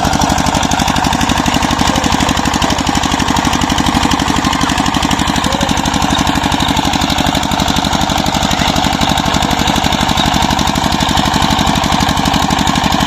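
Single-cylinder Peter diesel engine running steadily under load, driving the pump of a new tubewell, with a rapid, even knock.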